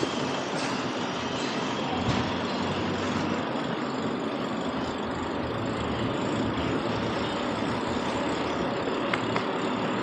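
Steady city street traffic noise, a continuous rush of vehicles passing, with a few faint clicks near the end.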